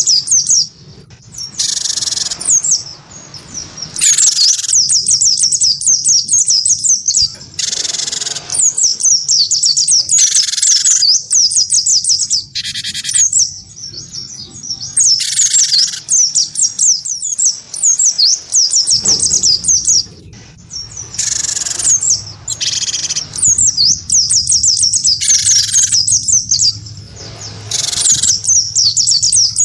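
A cinereous tit (gelatik batu) and a white-eye (pleci) singing against each other in a song duel. A continuous fast, high twittering is broken every two or three seconds by short harsh, rasping calls.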